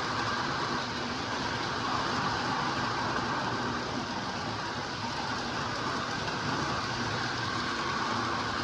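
Lionel O gauge model trains running on the layout's track: a steady hum of the electric motors and rumble of the wheels on the rails.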